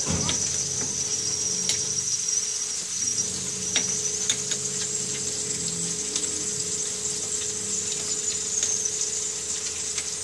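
Mud crab pieces frying in oil in a wok, a steady high-pitched sizzle, over a steady low hum, with scattered light clicks.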